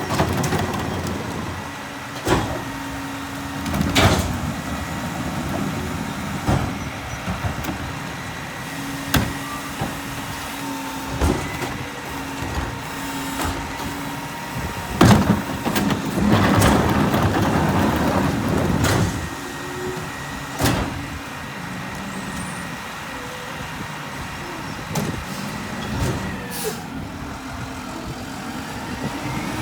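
Mack MRU garbage truck with a McNeilus rear-loader body, its diesel engine running steadily, with sharp bangs and clanks every few seconds. A louder rushing stretch comes a little past the middle.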